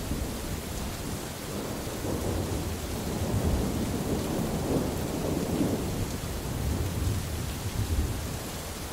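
Rolling thunder rumbling low over steady rainfall; the rumble builds a couple of seconds in and eases off near the end.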